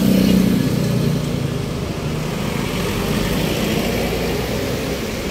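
Street traffic: vehicle engines running close by, a low engine hum loudest in the first second or so, then a steady traffic rumble.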